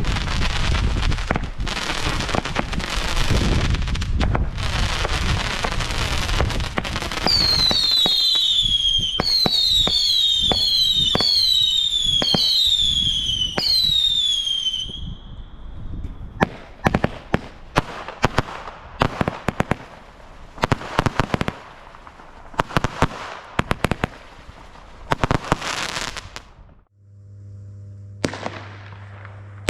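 Weco Matrix fireworks going off: dense crackling, then a run of about six whistles, each falling in pitch, then separate sharp bangs and crackles. Near the end it cuts to a steady low hum.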